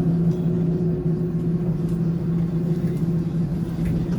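Tram running between stops, heard from inside the car: a steady hum of unchanging pitch over a low rumble from the running gear.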